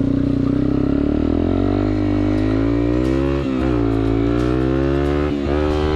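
Yamaha TW200's single-cylinder four-stroke engine pulling under acceleration, its pitch climbing, with two brief dips as the rider shifts up, about three and a half and five and a half seconds in.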